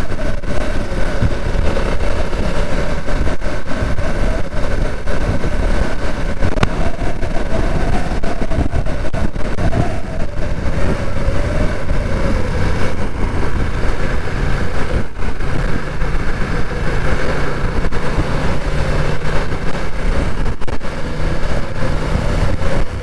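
BMW F900R's parallel-twin engine running while the bike is ridden, its note wavering up and down a little with the throttle, over a steady wind rush.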